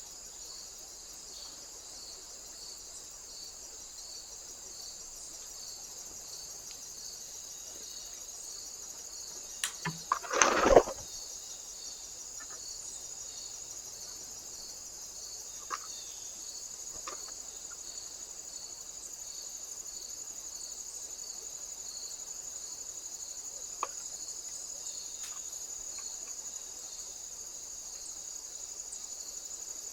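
Steady, high, finely pulsing chirring of insects. About ten seconds in, two clicks are followed by a brief loud rustling burst, with a few faint ticks later.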